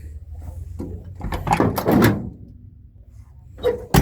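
A run of clunks and knocks about a second in, then a single sharp knock near the end, over a low steady hum.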